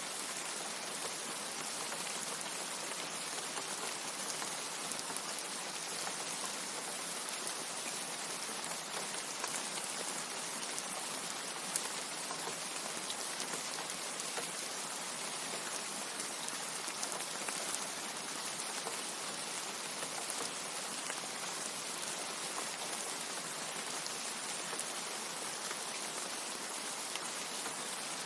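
Steady rain falling: an even hiss of many drops, strongest in the high end, with one sharp single drop tick a little before halfway.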